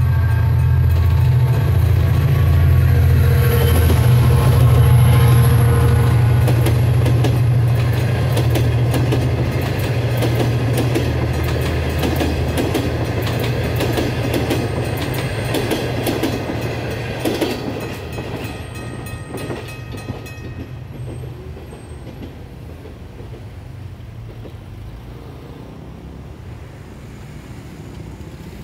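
A GT22CW diesel-hauled passenger train passing close by. A strong low diesel engine drone dominates for the first dozen seconds. Then the wheels click rapidly over the rail joints as the coaches go by, and the sound fades away after about 20 seconds.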